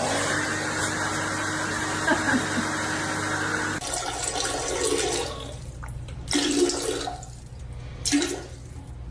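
Water rushing steadily for about four seconds, then stopping abruptly, followed by three short, louder sounds.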